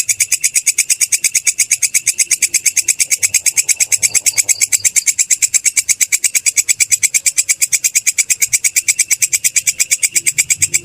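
Belalang kecek katydid calling: a rapid, even train of shrill chirps, about ten a second, without a break.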